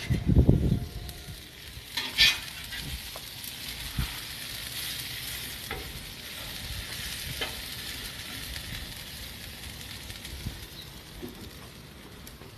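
Sliced steak and bell peppers sizzling steadily on a hot griddle plate over a gas grill. A few scrapes and taps of a metal spatula turning the food sound over the sizzle.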